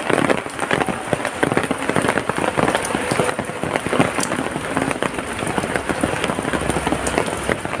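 Steady rain falling, with many separate drop hits heard through it. A low hum comes in near the end.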